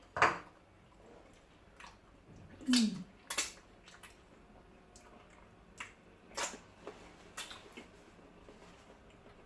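Eating sounds close to the microphone: scattered wet smacks and clicks of mouths chewing fufu with ogbono soup, with a short low falling hum about three seconds in.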